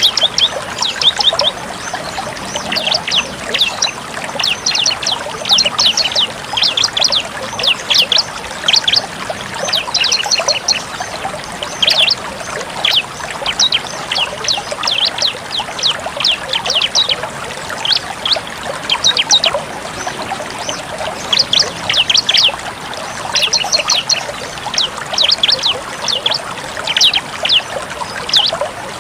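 Bar-winged prinia (ciblek) singing its rapid 'tembak' song: quick runs of sharp, high chips repeated in bursts every second or two, over a steady trickle of running water.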